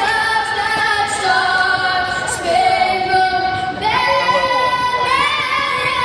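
A woman singing slowly in long held notes, moving to a new pitch every second or so.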